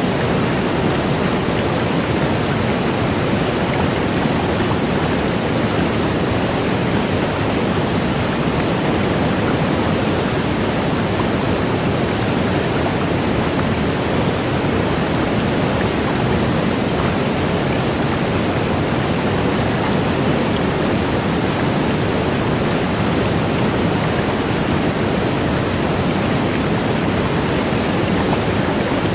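Niagara Falls' falling water: a steady, unbroken rush of noise, loud and even throughout.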